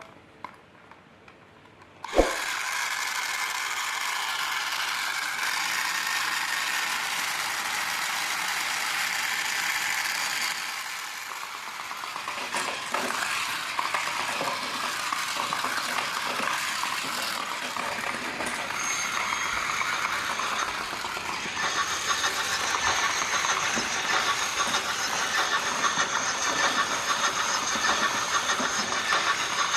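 Battery-powered Thomas toy train's small motor and plastic gears whirring steadily. It switches on with a click about two seconds in.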